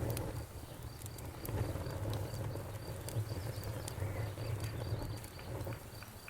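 Campfire crackling, with scattered sharp pops over a low rumble, while a cricket chirps steadily about three times a second.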